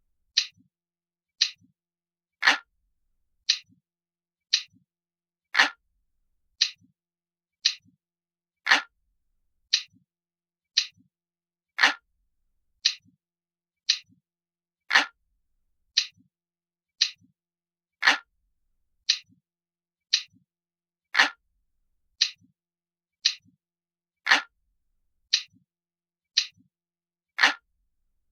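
Looped analog-clock ticking sound, about one sharp tick a second, steady and even, with every third tick louder than the two between.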